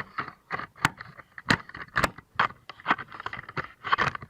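A quick, irregular series of sharp clicks, knocks and scrapes, about a dozen: hard parts being handled and shifted out of the way in a minivan's engine bay.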